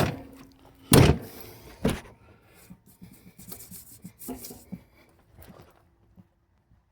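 Rubbing and handling noise: two loud, short scrapes about a second and two seconds in, then lighter rustling and small knocks that die away.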